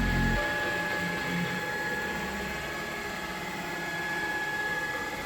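Stepper motors of a CNC router driving the gantry along the X axis with a low multi-tone hum that cuts off about half a second in as the move ends, leaving a steady, fainter high whine.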